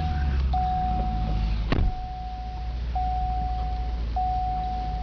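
The 2011 Cadillac CTS-V's supercharged 6.2-litre V8 idling just after starting, under the seat-belt reminder chime: a steady single-tone beep, each about a second long, repeating with short gaps. A single sharp knock about two seconds in.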